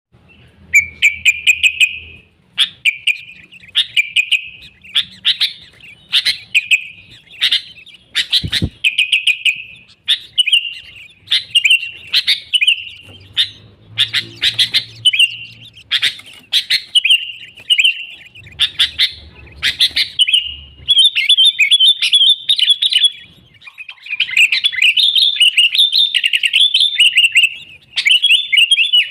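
Sooty-headed bulbul singing energetically: short bubbly, warbled phrases repeated every second or so, running into near-continuous chatter in the second half. A single brief low thump comes about eight seconds in.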